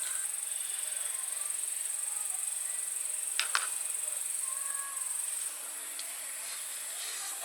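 Steady high-pitched chorus of insects in a summer forest, stepping down a little about five and a half seconds in. Two sharp clicks in quick succession about three and a half seconds in.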